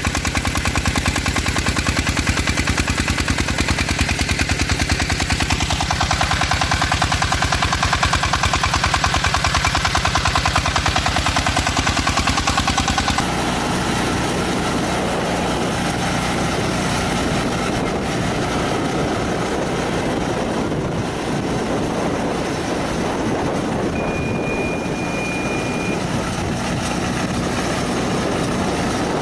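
Walking tractor's single-cylinder diesel engine running under load with a fast, even chugging. About 13 seconds in, the sound cuts to a different, smoother engine running steadily, with a short high tone near the end.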